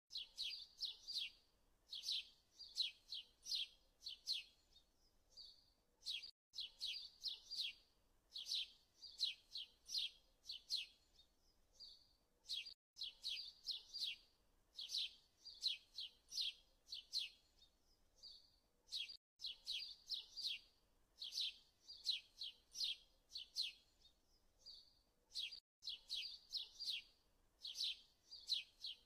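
Small birds chirping in quick clusters of short high chirps, a recording that loops about every six seconds with a brief dropout at each repeat.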